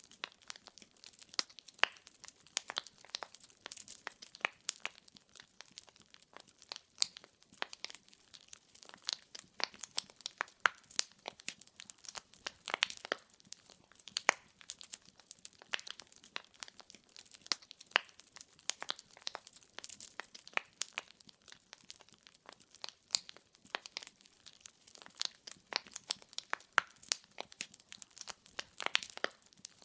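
Firewood burning in a fireplace, crackling with many sharp, irregular snaps of varying loudness, several a second.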